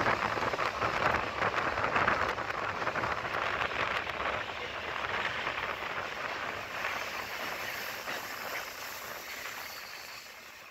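Indian Railways passenger train running at speed, heard from a carriage window: a steady rush of air and wheel-on-rail noise with fine rattling clatter, slowly growing quieter in the second half.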